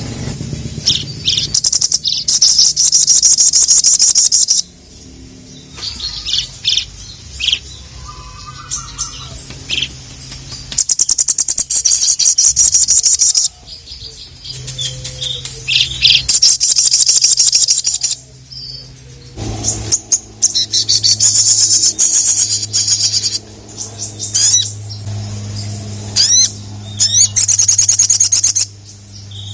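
Sogon (little spiderhunter) singing: bursts of fast, high rattling trills, each one to three seconds long, repeated with short gaps, some ending in quick sliding notes. A steady low hum runs underneath and grows louder about two-thirds of the way through.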